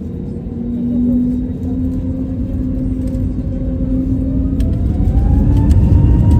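Airbus A320neo's CFM LEAP-1A turbofan engines spooling up for takeoff: a low rumble that grows louder, with a whine rising in pitch from about halfway through.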